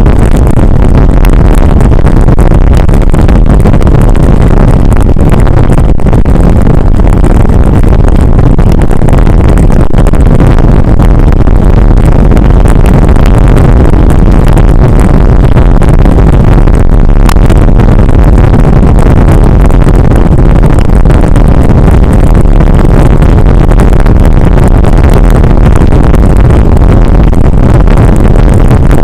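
Steady, loud wind noise rushing over the microphone of a camera carried on a moving bicycle, deep and constant without a break.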